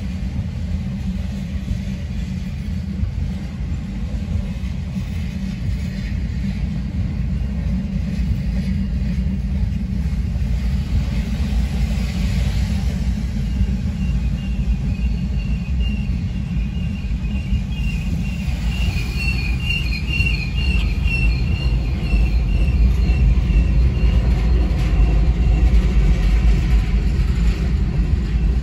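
Freight train of covered hopper cars rolling through a grade crossing: a steady low rumble of wheels on rail, heard from inside a car, that grows louder in the second half. A high-pitched tone rings over it for several seconds in the middle.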